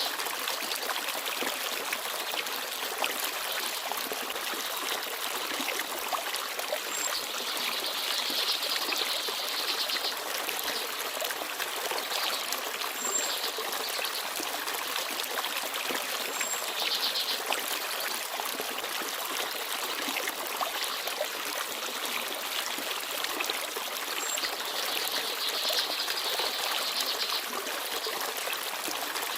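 Small forest stream babbling and trickling steadily over stones, with a few brief, faint high bird chirps now and then.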